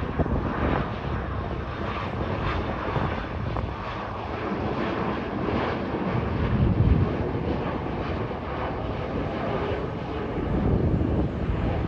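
Jet engine rumble of a Boeing 737 MAX 8 airliner flying overhead, its CFM LEAP-1B turbofans giving a steady roar that swells slightly about two-thirds of the way through.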